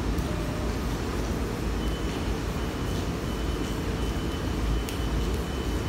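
Freight cars rolling past on the rails with a steady rumble. A faint, thin squeal joins about two seconds in, and there are a few light clicks.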